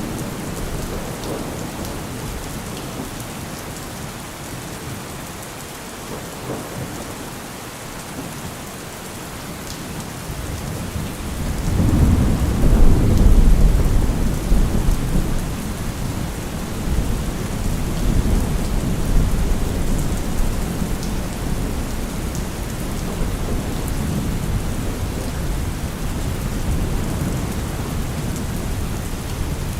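Steady rain falling, with a low rolling rumble of thunder that builds about twelve seconds in and dies away slowly, followed by weaker rumbles.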